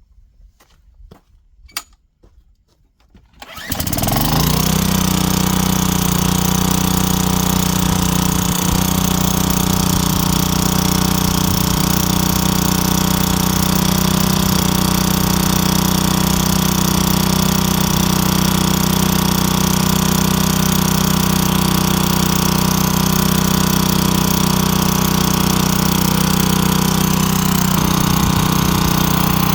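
Small engine of a Craftsman wheeled string trimmer, primed with a few squirts of fuel, catching after a few short clicks about three and a half seconds in. It then runs loud and steady at an even speed.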